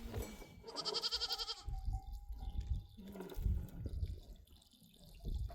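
A single quavering bleat from a sheep or goat in the herd, about a second in. Low rumbling thuds follow later on.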